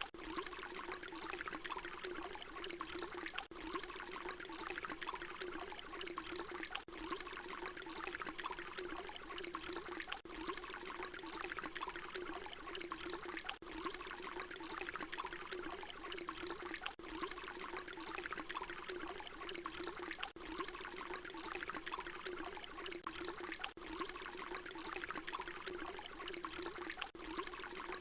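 Water pouring in a steady stream, splashing into water. A short recording looped, with a brief dip in the sound about every three and a half seconds where the loop repeats.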